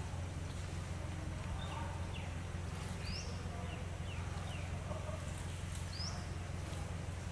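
Woodland ambience: a steady low rumble, with a bird repeating a short rising call about every three seconds and a few quick falling chirps in between.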